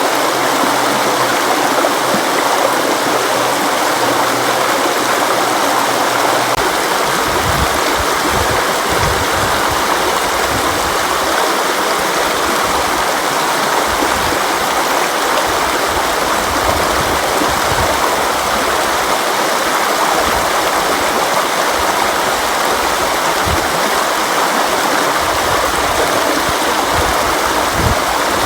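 River water flowing in a steady, even rush, with a deeper churning rumble coming in about six seconds in.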